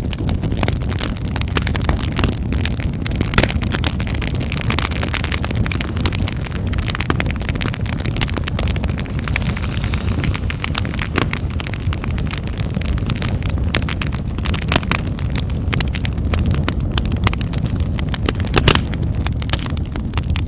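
Wood fire in a fireplace crackling, with a steady low rush of burning and many sharp pops and snaps at uneven intervals; a couple of louder pops stand out, one a few seconds in and one near the end.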